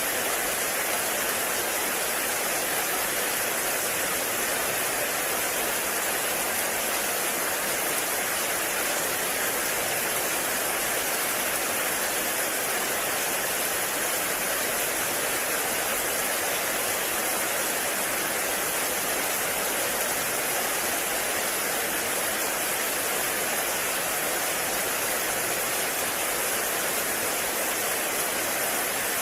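Heavy rain falling steadily in a forest, a dense, even hiss of water without pauses or separate drops standing out.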